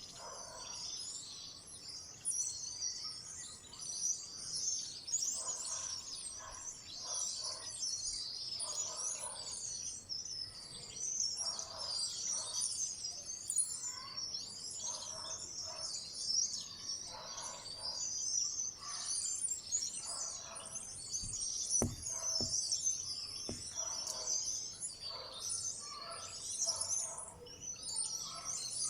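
Many small wild birds chirping and twittering together in a dense, unbroken chorus of high calls, with some lower calls mixed in. A single short knock comes about three quarters of the way through.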